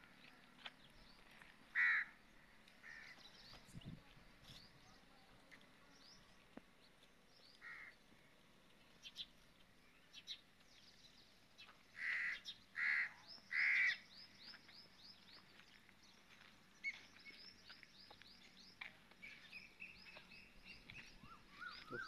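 Birds calling: a few loud short calls, three of them in quick succession about twelve seconds in, with quick high chirping of small birds through the second half.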